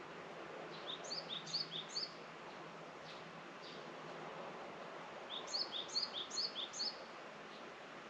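A songbird singing twice, each song a quick run of four repeated high phrases of three short falling notes stepping downward in pitch, over steady background noise.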